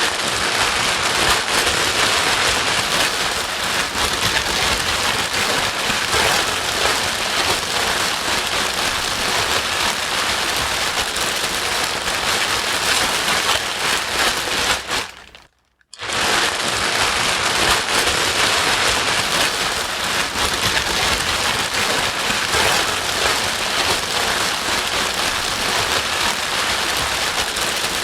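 Steady, loud white noise with a rain-like hiss. It cuts out for about half a second around fifteen seconds in, then carries on unchanged, as at the seam of a looped track.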